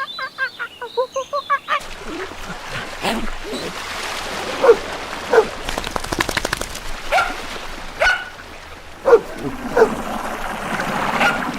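A dog barking in about ten short, separate barks over a noisy background. The first couple of seconds hold rapid, evenly repeated bird calls that end at a sudden cut.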